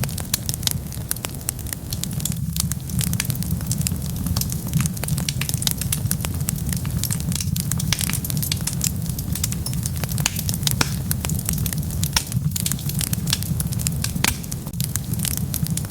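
Wood fire burning: frequent sharp crackles and pops over a steady low rumble of the flames.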